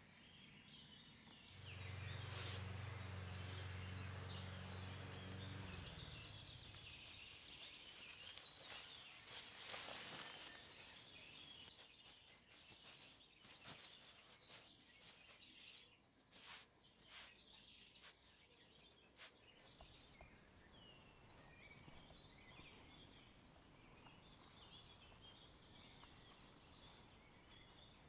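Quiet woodland ambience with faint bird chirps and scattered light clicks and taps. A low steady hum sounds for a few seconds near the start, then fades out.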